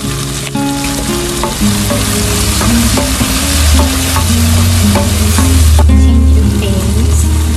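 Meat and tomatoes sizzling as they sauté in a pot and are stirred, with a steady frying hiss that dips briefly about six seconds in. Background music with a loud bass line plays over it.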